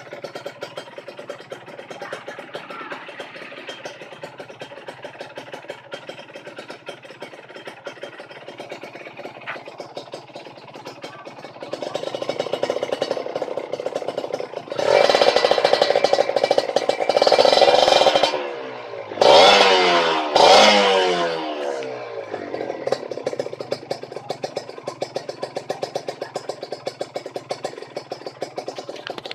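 Kawasaki Ninja R two-stroke single-cylinder motorcycle engine on an aftermarket exhaust, idling with a fast, even crackle. About halfway through it is revved and held high for about three seconds, then blipped twice, the revs falling away after each, before settling back to idle.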